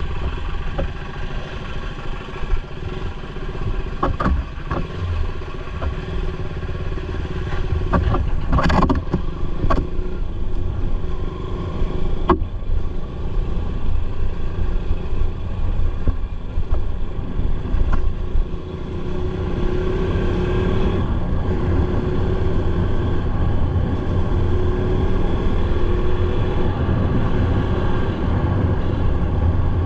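Motorcycle engine running steadily while riding, with wind and road rumble and a few short knocks along the way.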